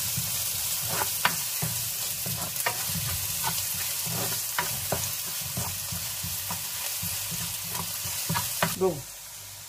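Chopped onion and garlic sizzling in hot oil in a frying pan, the garlic browning, while a spatula stirs them with repeated scrapes and taps against the pan. The sizzle cuts off suddenly near the end.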